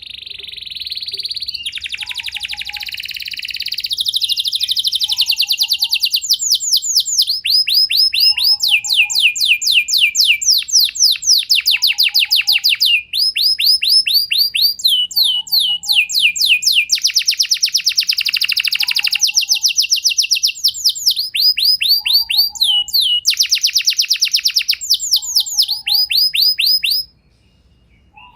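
Domestic canary singing a long, unbroken song of rapid trilled rolls, switching from one roll to the next every second or two and breaking off near the end. A faint short call repeats about every two seconds underneath.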